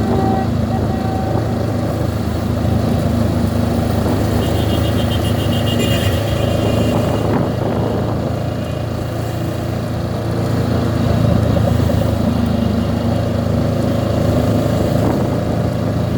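Honda CB 500X parallel-twin motorcycle engine running steadily under way, a continuous low hum under dense road and wind noise.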